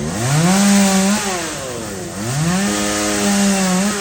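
Two-stroke chainsaw revved up to full throttle and held for about a second, dropping back, then revved up again and held for over a second before dropping back near the end.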